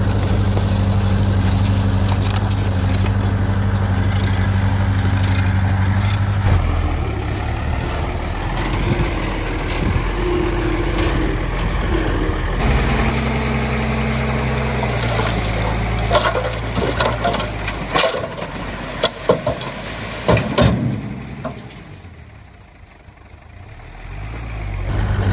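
Heavy diesel engine of earthmoving machinery running, its pitch shifting a few times, with a run of sharp metallic knocks and clanks in the second half. The sound dips low briefly near the end before the engine comes back.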